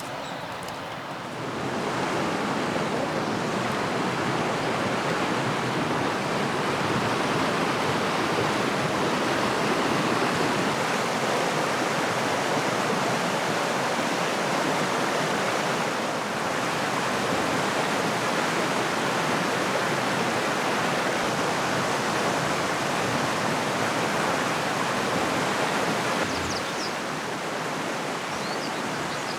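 Steady rush of water, growing louder about a second and a half in and easing off near the end.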